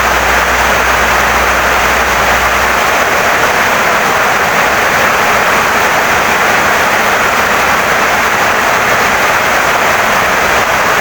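Heavy rain pouring steadily on a wooden house, a dense, even hiss with no letup.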